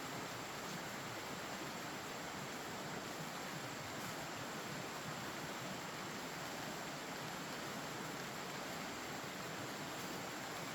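Steady outdoor ambient noise: an even, unchanging hiss with a faint thin high tone held throughout.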